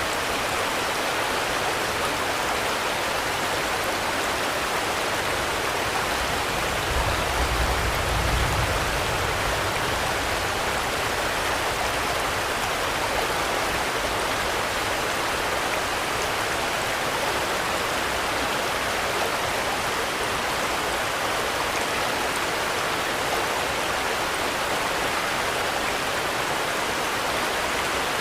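Steady, dense rainfall, an even hiss of many drops with no pauses. A brief low rumble swells and fades about seven seconds in.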